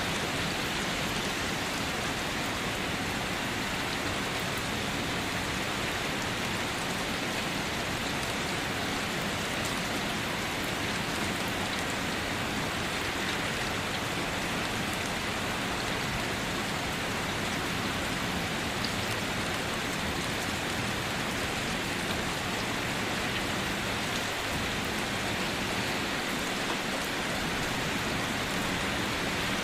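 Steady, even rainfall pattering on foliage and surfaces, with scattered individual drop ticks.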